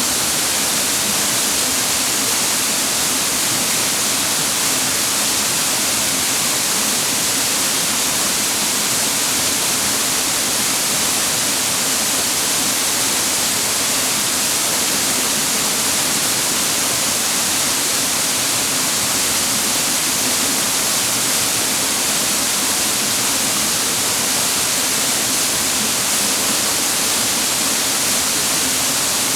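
Waterfall pouring steadily: an even, unbroken rush of water, heaviest in the hiss.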